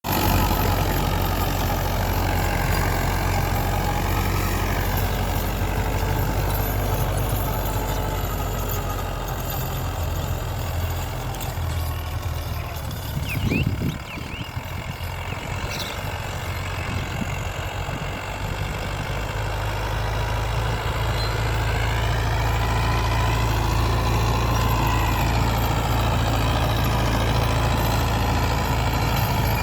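Mahindra 475 DI SP Plus tractor's four-cylinder diesel engine running steadily while cultivating. It eases off briefly about halfway through, and later its pitch rises and falls again.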